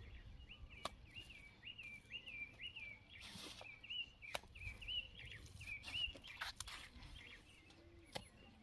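A bird calling a quick string of short, repeated chirps, two or three a second, that stops about six seconds in. A few sharp clicks and a couple of brief rustles sound alongside.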